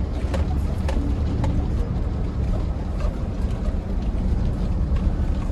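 Dump truck's diesel engine running with a steady low rumble, with scattered light clicks and rattles over it.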